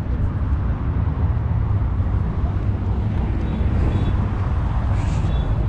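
Car running with a steady low engine and road rumble.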